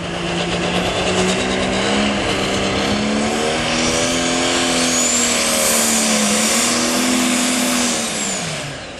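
Super stock pulling tractor's multi-turbo diesel engine running hard under load, with a rising turbo whistle about halfway through. Near the end the engine pitch drops away as the driver gets off the throttle, the run cut short because something wasn't right.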